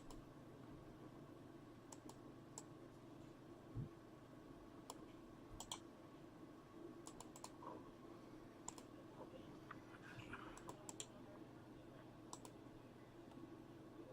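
Faint, scattered clicks of computer keyboard keys being typed, over near silence, as a list of team names is entered.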